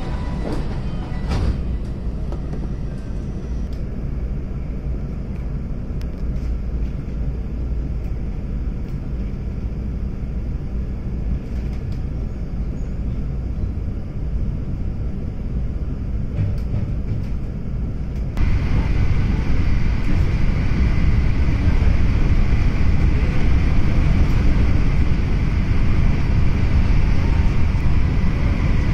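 Interior running noise of an electric passenger train. The doors thump shut about a second in, then a steady low rumble as the train pulls away. About two-thirds of the way through it jumps suddenly to a louder rumble of wheels on rail at high speed, about 108 km/h, with a faint high whine.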